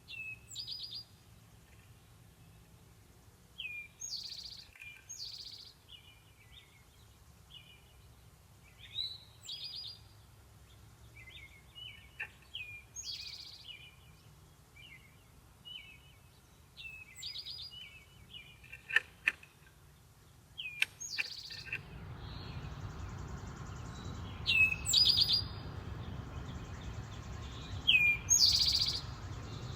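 Backyard songbirds calling: one loud call repeated about every four seconds, with softer chirps between. A few sharp clicks come about two-thirds of the way in, and a steady low background hum sets in soon after.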